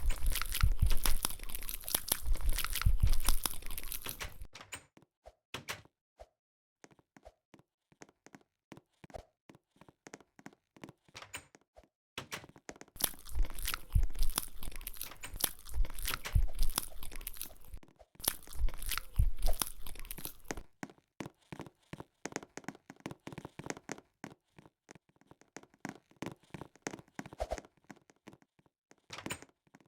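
Close-up eating sounds: crackly crunching and crinkling in three long spells, one near the start and two in the middle, with scattered small clicks and crackles between.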